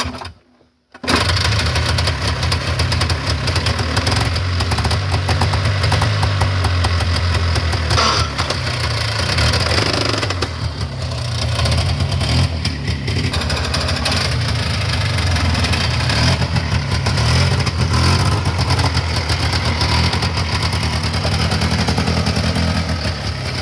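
1990s Polaris Trail Boss 350L ATV engine running under way, with a loud, rapid clattering coming through the drivetrain. The clatter is taken for gears grinding in the transmission when it is in a forward gear. The engine sound comes in abruptly about a second in.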